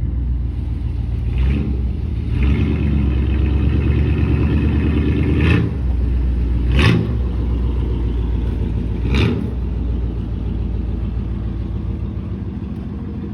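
Small-block V8 engine of a 1992 Oldsmobile Custom Cruiser running at idle after its water pump replacement, with a few short blips of the throttle.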